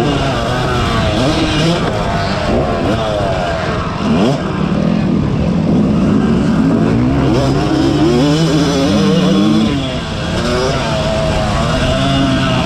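Yamaha YZ250 two-stroke motocross engine being ridden hard, its pitch rising and falling over and over as the rider opens and closes the throttle. Other engines' pitches are heard alongside it at times.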